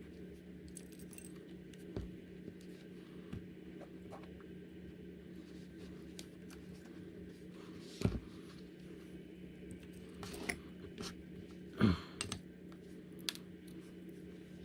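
A few short knocks and scrapes of leatherworking tools and materials being handled on a work surface, the loudest about 8 and 12 seconds in, over a steady low hum.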